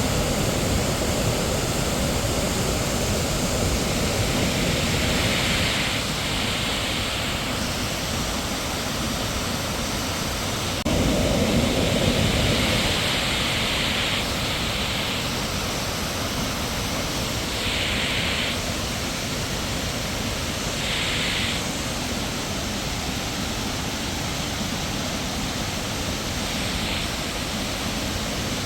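Waterfall rushing: steady, continuous noise of falling water, briefly louder and fuller about eleven seconds in.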